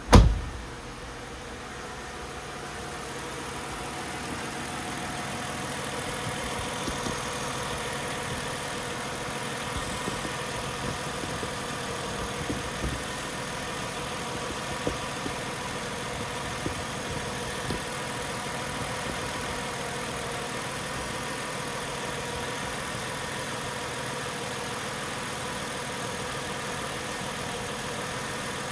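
Mercedes-Benz ML320's 3.2-litre V6 idling steadily while still warming up a few minutes after a cold start, heard close up from the engine bay. A single loud thump right at the start.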